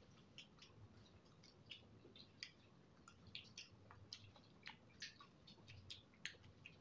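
Quiet, wet eating sounds: chewing with many scattered mouth clicks and smacks, and soft squelches of fingers working saucy noodles.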